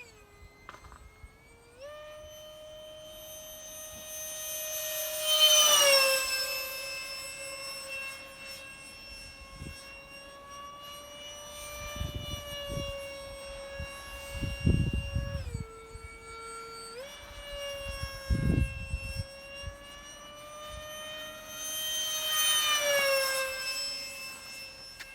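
Electric ducted fan of a small RC F-18 jet whining at high throttle, with a stack of overtones. It makes two low fast passes, about five seconds in and again near the end, each growing loud and dropping in pitch as it goes by. The pitch steps up about two seconds in and dips briefly past the middle, and a few low rumbles come in between.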